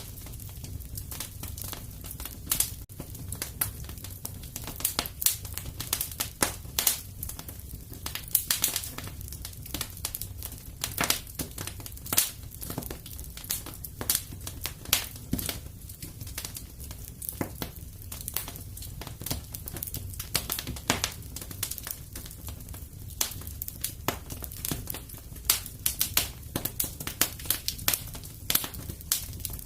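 Wood fire in a fireplace crackling: irregular sharp pops and snaps, several a second, over a low steady rumble of the burning fire.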